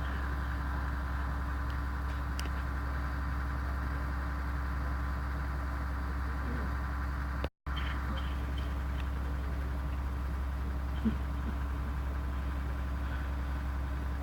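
Steady low electrical hum with faint hiss underneath: the background noise of the recording in a pause in the recitation. The sound cuts out completely for a split second about halfway through, and there is a faint click a few seconds later.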